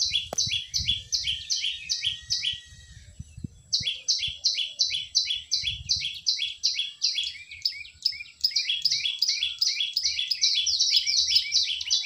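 Prinia (prenjak) calling: a fast, even series of sharp chirps, about four a second, with short breaks about three seconds in and again about eight seconds in.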